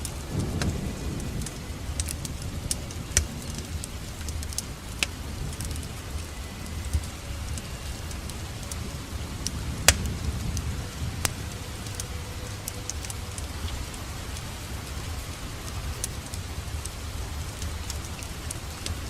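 Wood fire crackling, with scattered sharp pops, the loudest about ten seconds in, over a steady rain-like hiss and low rumble.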